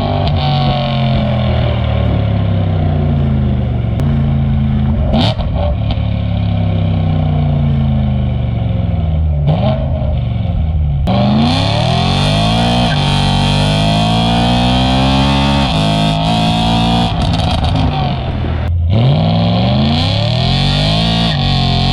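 BMW E92 M3's V8 engine accelerating hard on a fresh E85 tune. Its pitch climbs and drops several times as it shifts through the gears.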